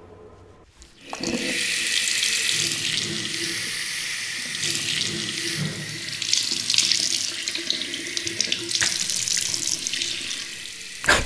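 Water running from a tap into a small washbasin and splashing, starting about a second in as a steady hiss.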